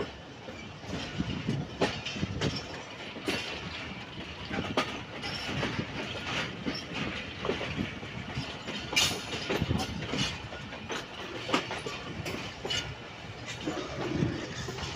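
Passenger train running on the move, heard from on board: its wheels click and knock unevenly over rail joints and points, over a steady rumble of the carriages.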